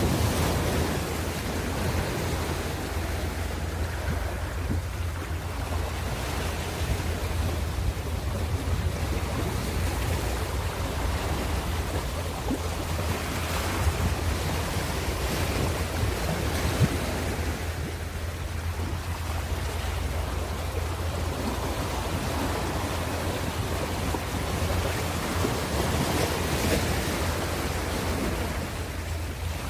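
Ocean waves breaking and washing on a shore, a continuous surf wash that swells and fades every few seconds, over a steady low rumble that may be wind on the microphone.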